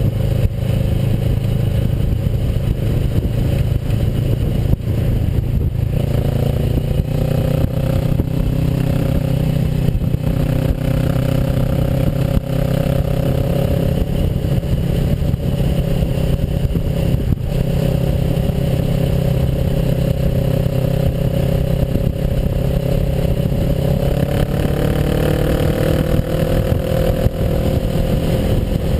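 Kawasaki Versys motorcycle engine running under way over a heavy low rush of wind and road noise. Its pitch rises as it accelerates about six seconds in and again near the end.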